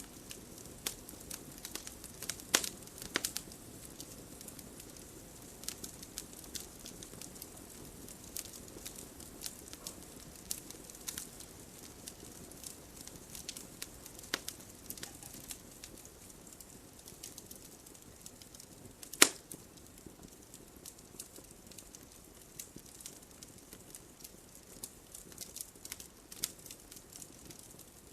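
Campfire burning with irregular crackles and pops over a low hiss, and one loud pop about nineteen seconds in.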